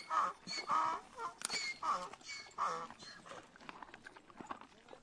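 A quick run of short honking animal calls over the first three seconds, then quieter scattered ticks of hoof steps as a Somali wild ass walks on dry ground.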